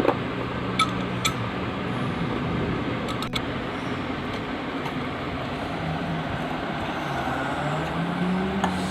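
Steady background noise with a faint low hum, broken by a few light clicks of small engine parts being handled and set in place.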